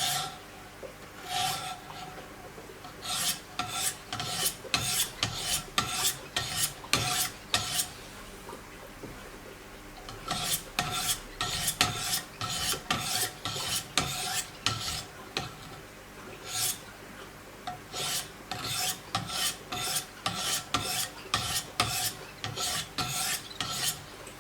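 Diamond sharpening stones of a Wicked Edge guided sharpener rasping along the steel edge of a Giant Mouse K-GMF2 knife, in repeated strokes about two a second, in runs broken by two short pauses.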